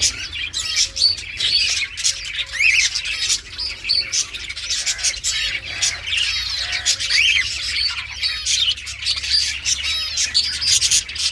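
Green Indian ringneck parrot chattering: a rapid, unbroken run of high chirps and squawks, with a few quick whistles that rise and fall.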